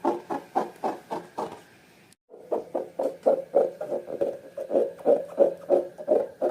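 Slime being squeezed and kneaded by hand, wet squelches in an even rhythm of about three a second, broken by a brief cut about two seconds in.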